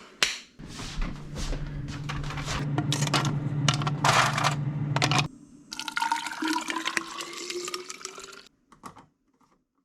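Water running and pouring, then filling a container, the pitch slowly rising as it fills. It stops about a second before the end.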